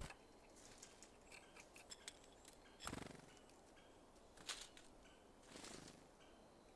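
Small birds at a seed feeder: faint scattered taps and clicks of pecking and handling seeds, with a louder sharp knock about three seconds in and another about four and a half seconds in.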